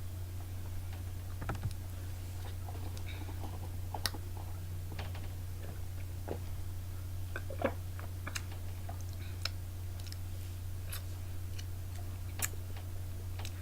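Scattered small clicks and taps of a plastic shake bottle being handled and opened, its metal-sealed top worked off, over a steady low hum.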